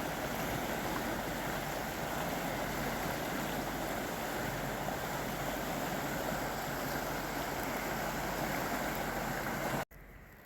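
River water rushing steadily, a constant even roar of flowing water that cuts off suddenly near the end.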